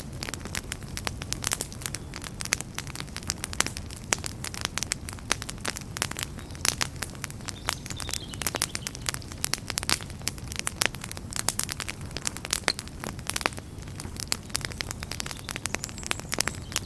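Wood fire burning in a fireplace: constant irregular crackles and pops over a low steady rumble of the flames.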